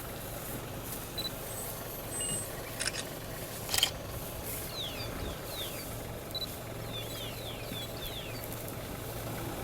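Open-air ambience with a steady low rumble, two sharp clicks about three and four seconds in, and a bird giving a run of quick descending chirps through the middle.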